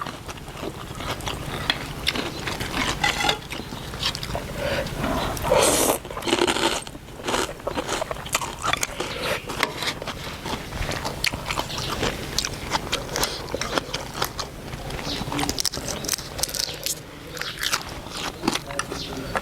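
A person chewing and crunching crisp food close to the microphone, with many short sharp crunches and a louder, noisier stretch about six seconds in.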